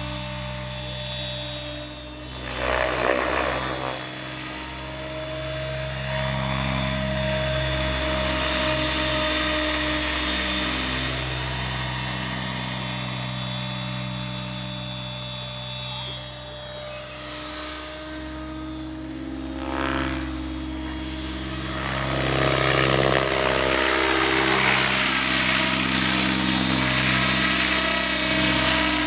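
Radio-controlled crop-spraying helicopter in flight: a steady hum of motors and rotor blades made of several held tones, swelling briefly about 3 s and 20 s in and growing louder from about 22 s as it maneuvers.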